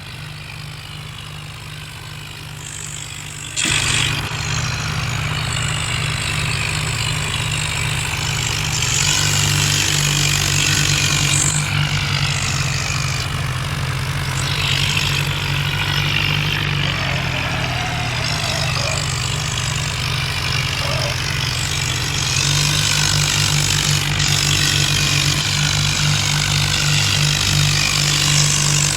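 Diesel tractor engines running hard under load in a tractor tug-of-war. The engine sound jumps sharply louder about four seconds in and steps up again twice later.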